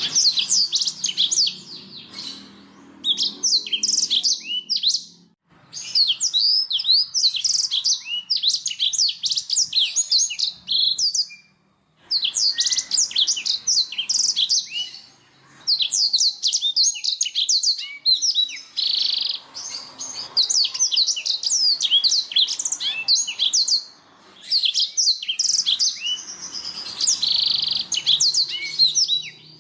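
Domestic canary singing: long phrases of rapid, high chirps and trills, broken by short pauses every few seconds.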